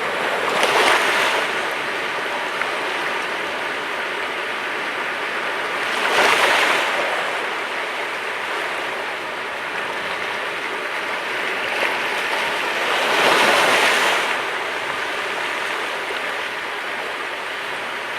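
Sea waves breaking on the shore: a steady wash of water with three louder surges about six seconds apart.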